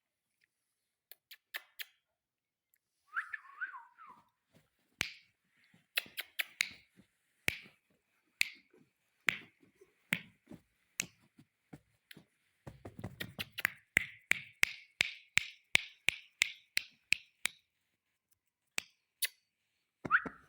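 Ringneck parakeet clicking. Scattered sharp clicks quicken into an even run of about three a second, with a short falling call about three seconds in and another near the end.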